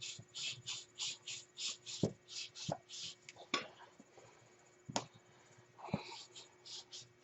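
Scotch-Brite pad scrubbing rust out of a steel A-arm bushing bore: a quick rasping rhythm of about four strokes a second, with a pause in the middle and a few sharp knocks.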